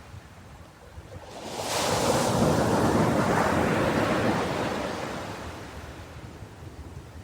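Ocean surf: a wave swells up about a second in, breaks with a hiss, then washes back and slowly fades.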